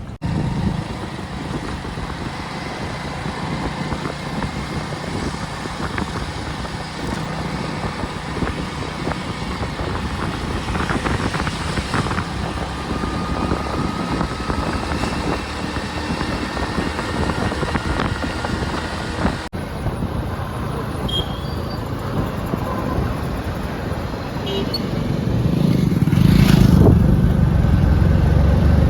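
Road vehicle engine and traffic noise, a steady rumble that changes abruptly about two-thirds of the way through, with a low rumble growing louder near the end.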